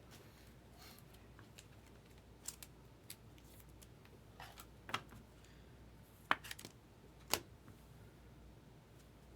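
Trading cards being handled and flipped through: a scattering of light snaps and clicks, the sharpest a little past six seconds and again near seven and a half seconds.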